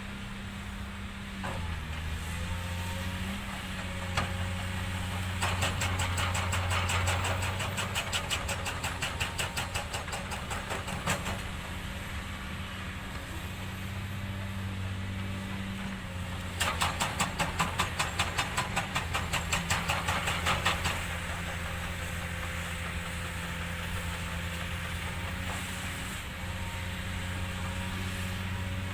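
An engine running steadily with a low hum, joined twice by a stretch of fast, regular clatter at several beats a second.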